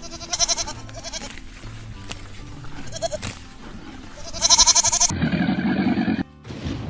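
Bleating from a goat or sheep: three quavering calls, the last and loudest about four and a half seconds in, over background music. About five seconds in they give way to a muffled, duller sound that cuts off abruptly.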